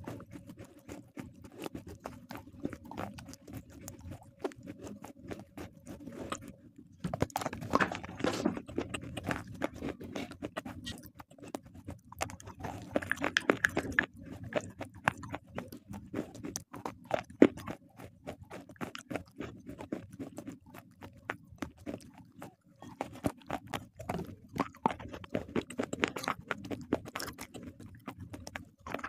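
Close-miked crunching and chewing of brittle slate-pencil and shale-stone pieces: a dense run of sharp crackles and snaps with wet mouth sounds between them.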